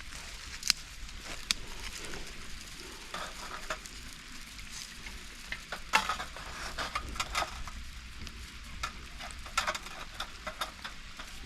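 Small outdoor wood fire crackling, with irregular sharp pops and snaps over a faint hiss, just after fresh firewood has been added.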